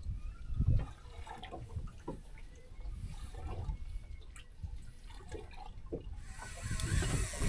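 Water sloshing and dripping in irregular slaps around a small boat, with a few light knocks; a steady hiss comes in about six seconds in.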